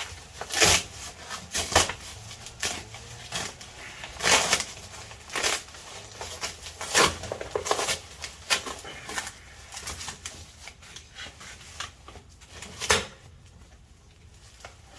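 Cardboard box and packing material being handled and shifted: irregular knocks, scrapes and rustles. The handling goes quieter in the last second or two.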